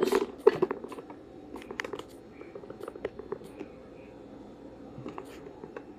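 Scattered light clicks and rustling handling noises, with one sharper knock about half a second in.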